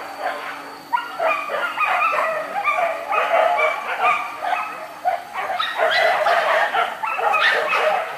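A pack of hunting dogs barking and yelping together, many voices overlapping without a break.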